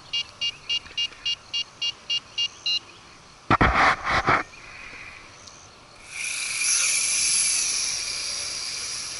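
A string of short high electronic beeps, about three or four a second, as the toy quadcopter and its transmitter bind. A brief clatter follows, then the Nihui U807's small brushed V636 motors spin up into a steady high whir as it lifts off.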